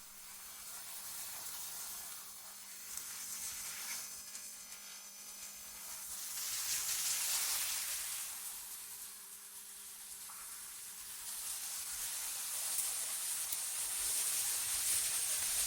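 Airy, wind-like hiss from a generated ambience track, swelling about seven seconds in and again near the end, with a faint steady low hum underneath.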